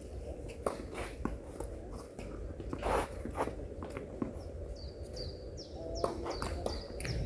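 Outdoor ambience with a steady low rumble and a few scattered knocks, the loudest a brief scuffing burst about three seconds in. Small birds chirp repeatedly with short high calls in the second half.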